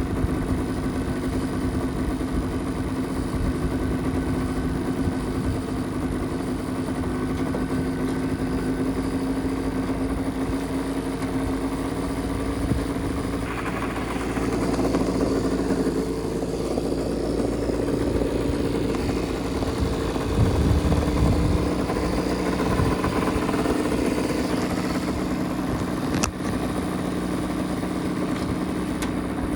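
1970 Mitsubishi Minica 360 GSS's small two-stroke twin engine running steadily at idle, its note lifting about halfway through, with a brief louder rise about two-thirds of the way in.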